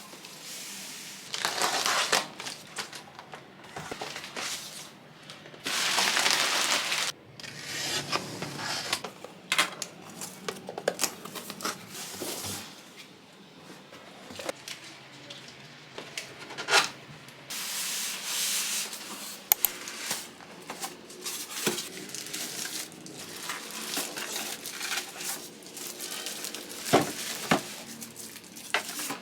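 Packaging being handled and unwrapped: irregular crinkling and rustling of paper or plastic, with occasional sharp light knocks and clicks.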